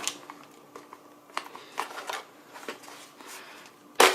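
Plastic clicks and small knocks as a robot vacuum's dustbin is handled and worked open, ending about four seconds in with one sharp, loud plastic snap as the bin's catch lets go.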